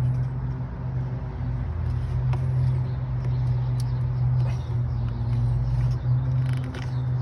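Steady low mechanical hum, with a few faint clicks and taps of parts being handled.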